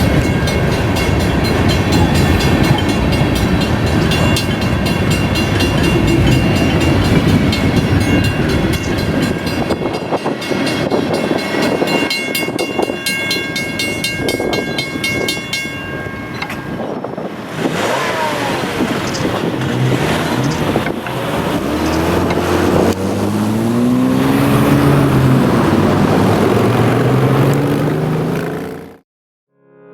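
Freight train rolling through a grade crossing with the crossing's mechanical bell ringing rapidly. The bell stops about halfway through, and road vehicles' engines then rev up as they pull away across the tracks.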